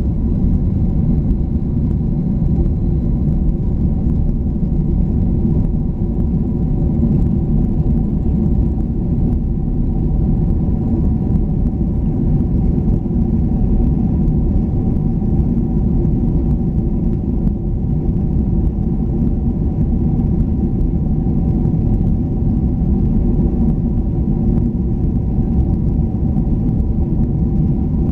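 Steady cabin noise of a jet airliner's engines and airflow: a deep, even rumble with a few steady engine tones above it.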